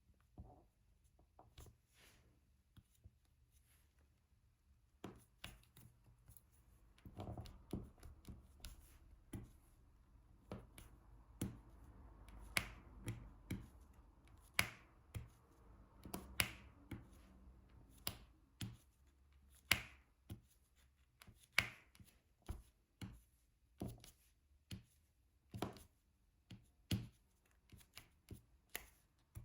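Diamond-painting drill pen tapping resin drills onto the sticky canvas: a string of light, sharp clicks. They are sparse at first, then come about one or two a second.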